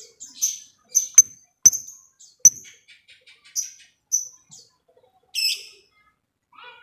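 Lovebirds calling: short shrill chirps roughly every half second, with a few sharp clicks, and a quick run of faint ticking notes in the middle, the 'ngetik' ticking of a lovebird in song.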